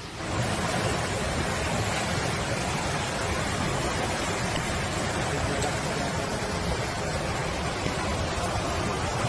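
Loud, steady rush of water, cutting in abruptly about a third of a second in.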